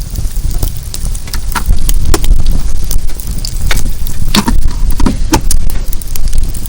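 Bonfire burning with irregular sharp crackles and pops, over a steady low rumble that grows louder about two seconds in.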